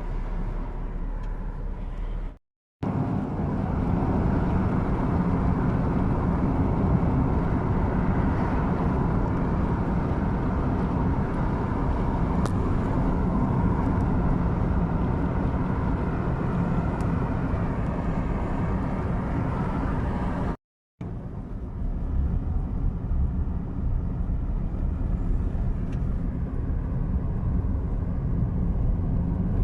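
Car driving along a road: steady road and engine noise with a low rumble. It drops out to silence twice, briefly, about two and a half seconds in and again about twenty-one seconds in.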